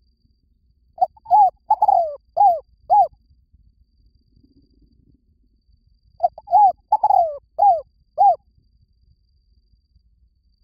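Spotted dove cooing: two song phrases about five seconds apart, each a run of about five short, falling coos. This is the calling of a decoy dove used to lure wild doves.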